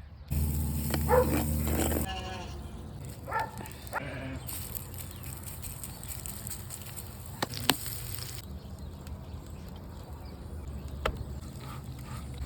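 Livestock bleating: a couple of wavering calls in the first few seconds. Later come two single sharp clicks.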